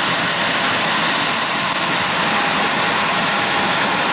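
Large diesel harvest machinery, combines and tractors, running steadily: an even, unbroken rush of engine noise with a faint steady whine.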